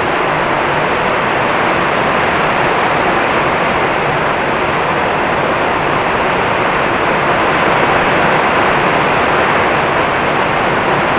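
Heavy rain pouring down hard, a dense steady hiss that does not let up.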